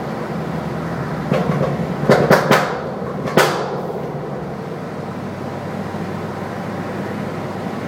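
Decatted Ford Focus ST exhaust popping and banging on the overrun over the steady engine and road noise. A quick run of sharp cracks comes about one and a half to two and a half seconds in, then one last loud bang about a second later that rings on briefly.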